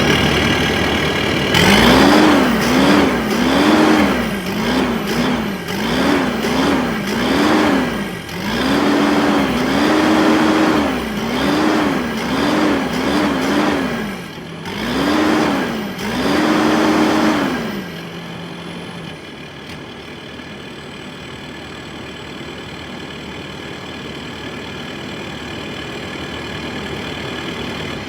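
Straight-piped, tuned Kubota SVL75-2 compact track loader's diesel engine being revved over and over, each rev a quick rise and fall in pitch, roughly one a second. About eighteen seconds in it drops back to a steady idle.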